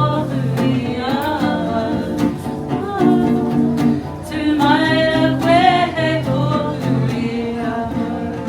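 Singing with guitar accompaniment: a voice holding and bending long notes over strummed chords.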